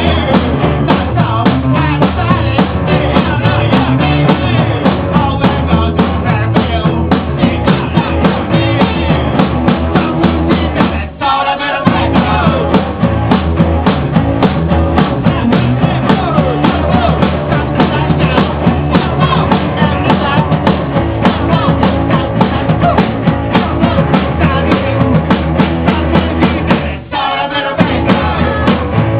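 Rock band playing loud, with drum kit, guitar and singing. The playing breaks off briefly twice, about 11 seconds in and again near the end.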